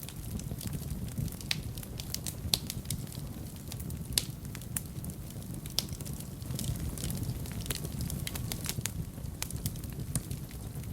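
Wood fire burning in a fireplace: a low steady rumble of flames under frequent, irregular sharp crackles and pops. A few pops stand out louder, about two and a half, four and six seconds in.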